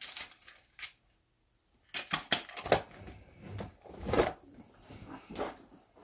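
Small objects being handled and set down: a string of short clicks and knocks with some rustling, with a brief quiet gap about a second in.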